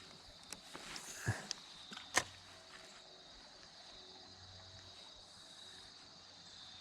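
Quiet creekside ambience: a steady high insect drone, with a few soft clicks and knocks in the first two seconds.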